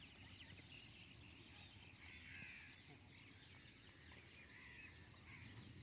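Near silence, with faint distant bird calls.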